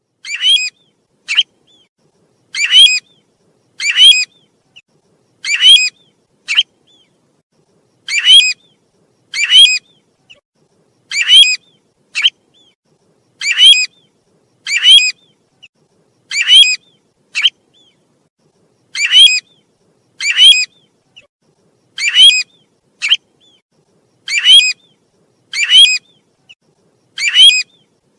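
Recorded call of the bird known in Vietnamese as 'tu huýt', played back as a lure and looping steadily. Each phrase is two or three sharp, rising whistled notes followed by one short note, repeating about every two and a half to three seconds.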